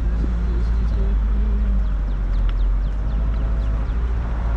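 Car driving at low speed, heard from inside the cabin as a steady low road and engine rumble, with a few faint short falling chirps around the middle.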